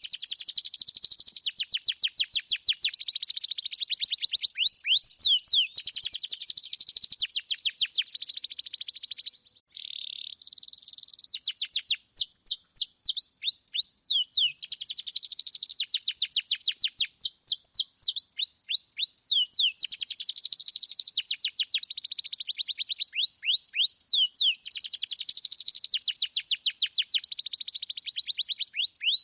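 A domestic canary singing long, rapid trills of high, quickly repeated falling notes, with one short break about ten seconds in.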